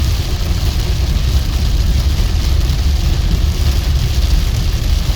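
A vehicle driving in the rain: a steady, heavy low rumble of engine and road with an even hiss of rain and wet tyres over it.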